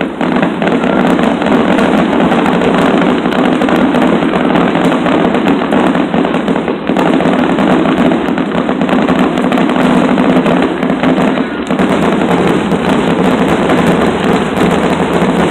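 Aerial fireworks display going off in a dense, continuous barrage: shell bursts and crackling follow one another with no break, loud throughout.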